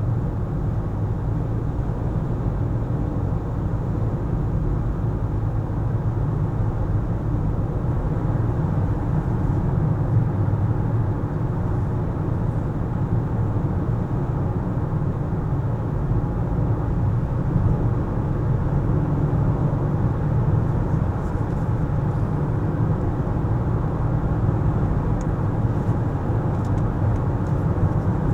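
A car driving at a steady pace: a continuous low rumble of engine and road noise. A few faint ticks come in near the end.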